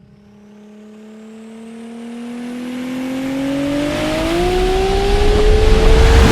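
Porsche Macan V6 running through an Armytrix valved cat-back exhaust, accelerating: the engine note rises steadily in pitch and grows louder throughout.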